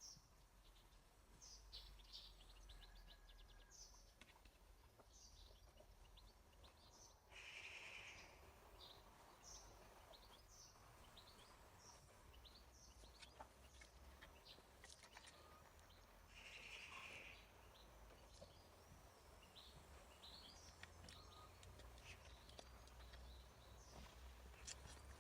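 Faint songbirds chirping and trilling in many short calls, over a low steady rumble. Twice a louder, rougher sound of about a second stands out.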